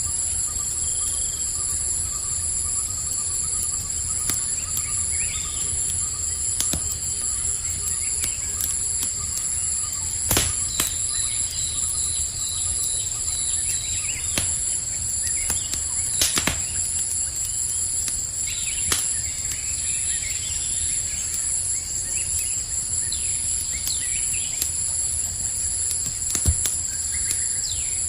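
Campfire crackling with scattered sharp pops, three of them louder, over a steady high-pitched chorus of crickets and a low rumble.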